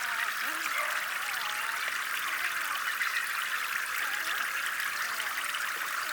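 Water flowing and trickling steadily, with many small gurgles, like the running water of a small pond or stream.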